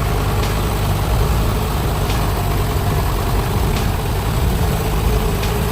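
Heavy vehicle's diesel engine running steadily with a deep rumble, with a faint tick about every second and a half.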